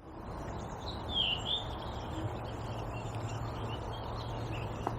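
A single short bird call about a second in, falling and then rising in pitch, over a steady outdoor background hiss.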